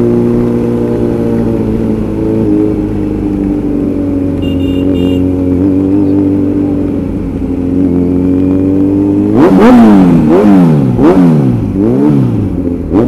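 Kawasaki Z900's inline-four engine running at a steady pitch under way. From about nine seconds in it is revved in five or six quick throttle blips, the pitch climbing and dropping each time.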